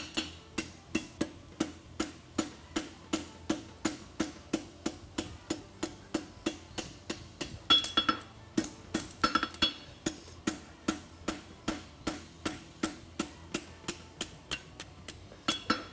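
Hammer blows on hot concave horseshoe stock over the anvil, a steady rhythm of about three strikes a second, bending the toe of the shoe. Some blows ring brighter off the anvil.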